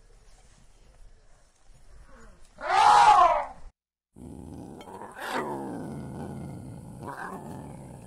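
Male lion growling and roaring: a long, low call that starts abruptly about five seconds in and sinks in pitch, with a shorter call a little before the end. Earlier, about three seconds in, comes one short, loud animal call of its own.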